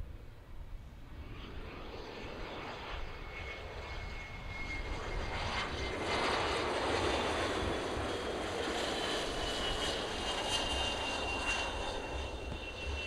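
Fixed-wing aircraft engines passing by, growing louder to a peak from about six seconds in, with a high whine that slowly falls in pitch.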